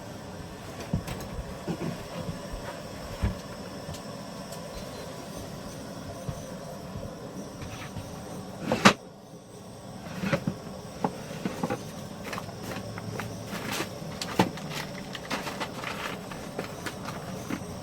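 Light clinks and knocks of coffee-making gear being handled, over a steady low hum, with one sharp knock about nine seconds in and a run of quicker small clicks after it.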